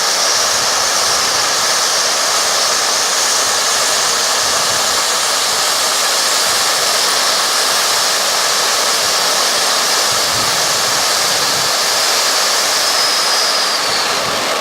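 Titanium Volcano ground-fountain firework spraying sparks with a steady, loud hiss, beginning to die down near the end.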